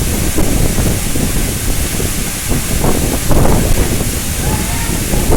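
Steady rushing of a waterfall's falling water, with wind buffeting the microphone.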